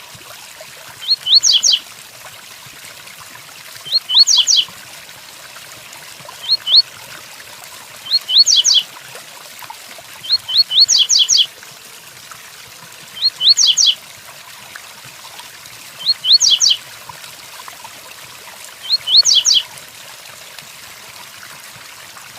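Double-collared seedeater (coleiro) singing its 'tui-tuí' song: eight short, high phrases of quick rising whistled notes, one about every two and a half to three seconds. A steady hiss of rain runs underneath.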